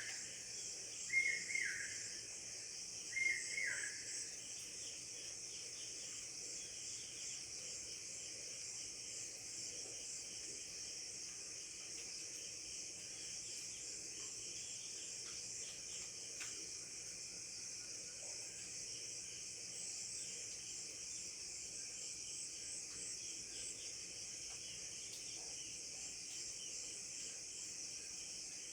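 Insects, crickets by the sound of it, chirring steadily in a high, pulsing chorus. A bird gives two short calls about a second and three seconds in.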